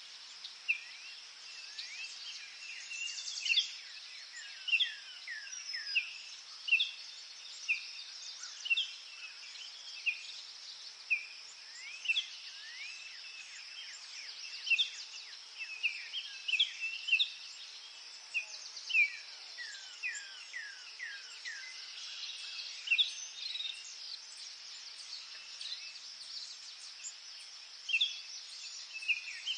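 Forest birds chirping and singing in short notes, roughly one a second, over a steady high insect-like hiss.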